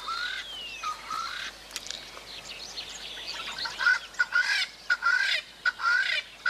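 Birds giving repeated harsh alarm calls at a predator: a run of short, hooked calls about twice a second, growing denser and louder about four seconds in as more calls join.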